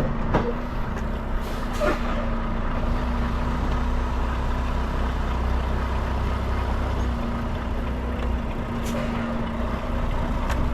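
Semi truck's diesel engine running steadily at low revs with a constant low hum while the rig reverses slowly, with a few short hisses and clicks.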